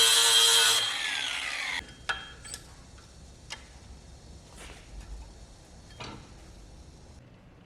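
A power tool's motor running with a steady whine, switched off about a second in and winding down with a falling pitch. A few light clicks and taps follow.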